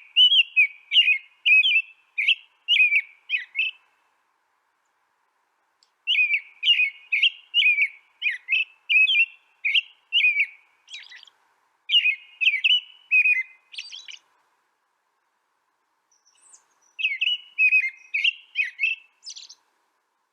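Songbird singing: runs of quick, clear chirping notes that sweep up and down in pitch, three runs in all, separated by silent pauses of two to three seconds.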